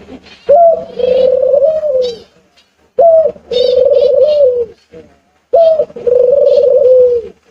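Sea birds cooing: three long calls, each a short higher note followed by a long wavering moan that falls away at its end, with fainter high-pitched bird chatter.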